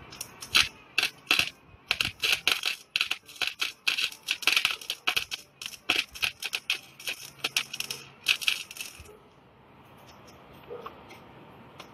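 Electric welding arc crackling and sputtering in irregular pops and bursts, stopping about nine seconds in. The welder afterwards judges the machine was not set hot enough for this weld.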